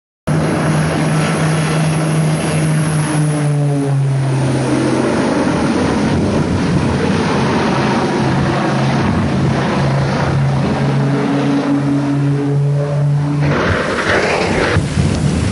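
Propeller aircraft engine running loudly, a steady low drone with sliding higher tones over a dense rushing noise. The drone cuts out about thirteen and a half seconds in, leaving only the rushing noise.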